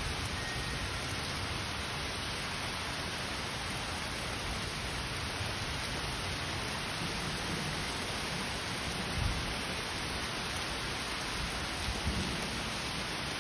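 Heavy rain falling steadily on a lawn and road, an even hiss, with two brief low thumps, one about two-thirds of the way through and one near the end.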